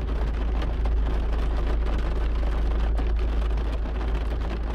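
Heavy rain pattering on a car's roof and windscreen, heard from inside the car, over a steady low rumble.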